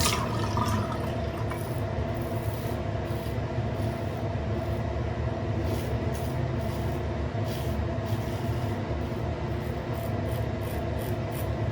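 Stainless Karve Christopher Bradley safety razor with a D plate scraping through stubble in short, light cross-grain strokes, over a steady low background hum.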